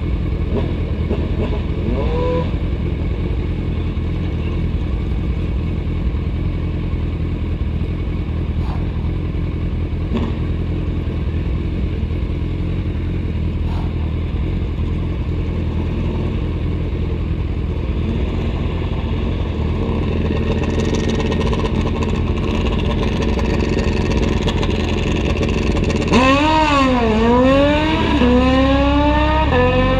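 Drag-racing motorcycle engine running steadily at a low, rumbling idle, with a short blip about two seconds in. Near the end it is revved twice, then pulls away with the pitch climbing, dropping once at a gear shift and climbing again.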